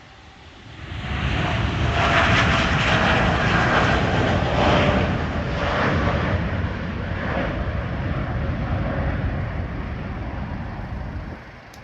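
Jet airliner's engines passing close by, swelling quickly about a second in to a loud rushing roar with a faint whine, then cutting off abruptly near the end.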